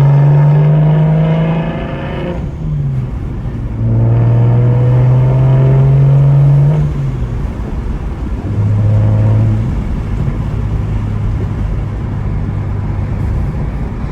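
Single-turbo BMW 335i's inline-six accelerating through the gears: the engine note climbs steadily, breaks off at a shift about two seconds in, climbs again, then drops at another shift. It settles into a steady cruise for the last several seconds.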